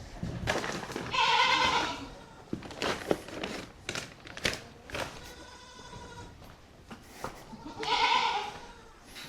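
A goat bleating: two loud, drawn-out calls of about a second each, one near the start and one near the end, with a fainter call between them. Scattered short knocks and clicks fall between the calls.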